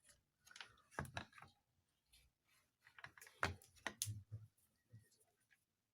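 Faint, irregular clicks and taps from small objects being handled on a workbench.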